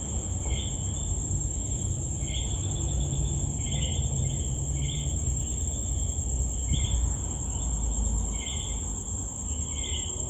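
Night insects, crickets among them, keeping up a steady high-pitched trill, with short chirps repeating roughly once a second over a low rumble.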